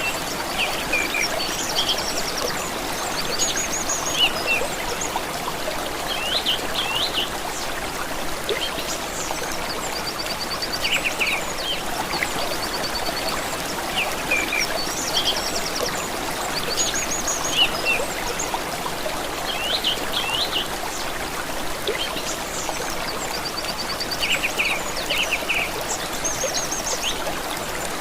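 Flowing stream water making a steady trickling rush, with small songbirds calling over it: short chirps and quick high trills every second or two.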